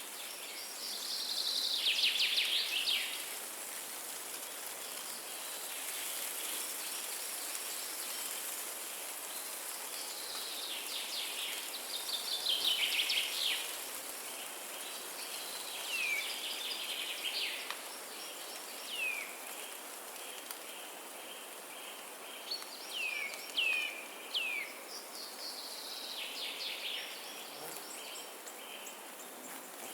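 Songbirds singing over a steady forest wind hiss: a descending trill of about two seconds recurs three times, with short downward whistles in between.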